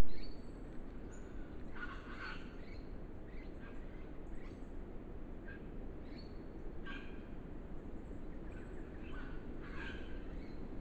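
Wild birds giving harsh, crow-like calls several times, every second or two, over a steady low background hiss. A sharp click at the very start.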